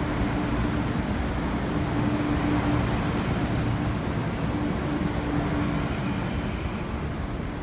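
MTR East Rail Line MLR electric multiple unit rolling along the platform as it arrives, slowing: a steady rumble of wheels on rail with a low hum that comes and goes, easing off a little near the end.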